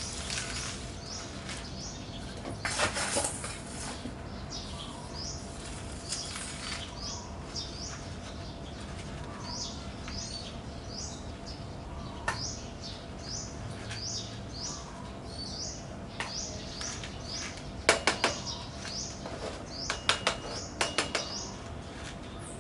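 A bird chirping over and over in short, high calls, about one or two a second. A few sharp clicks and taps come through as well, in a cluster near the end.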